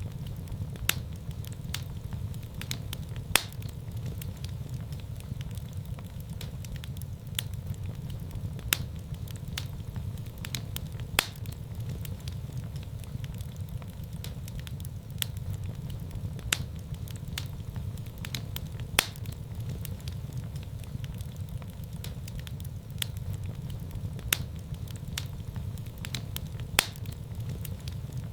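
Wood fire burning in a fireplace: a steady low rumble of flames with sharp, irregular crackles and pops, roughly one or two a second.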